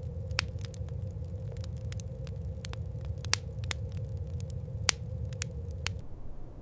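Irregular sharp crackling over a low steady rumble and faint hum, all stopping abruptly about six seconds in.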